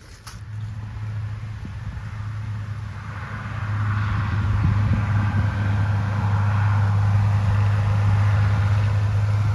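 Combine harvester engine running with a steady low hum, growing louder about three to four seconds in and then holding steady.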